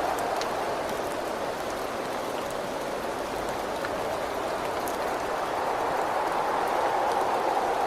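Steady rain with a whistling wind that eases off in the middle and swells again near the end, with a few light drop ticks.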